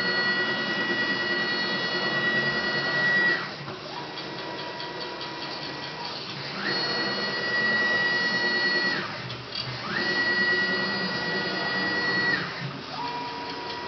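CNC milling machine running, its axis drive motors whining as it moves. Three times a high whine rises quickly, holds steady for two to three seconds, then drops and stops. Between these moves a quieter, lower steady tone runs, over a constant mechanical hiss.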